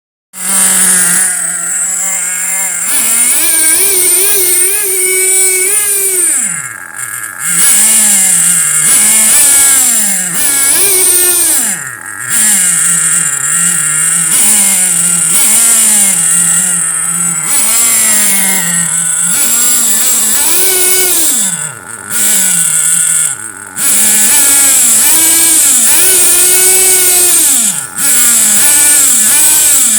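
Small .15 nitro RC engine fitted with a tuned pipe muffler, blipped and revved repeatedly. It climbs to a high rev, sometimes held for a few seconds, then drops back toward idle, over and over.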